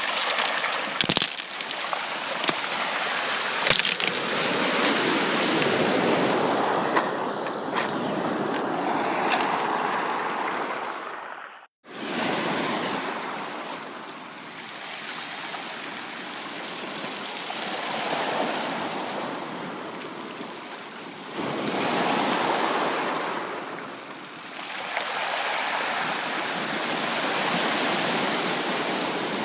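Ocean surf: waves breaking and washing up the beach in slow swells that rise and fall every few seconds, with a few sharp clicks in the first seconds. The sound cuts out abruptly for a moment just before the middle, then resumes.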